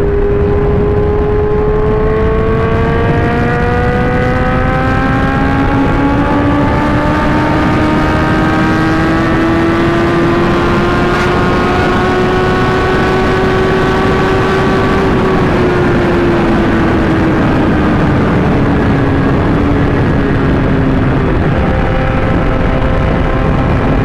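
Inline-four sport motorcycle engines running at speed, their pitch climbing slowly over about fifteen seconds and then easing back down; a second bike's engine note comes in about four seconds in, under steady wind and road noise.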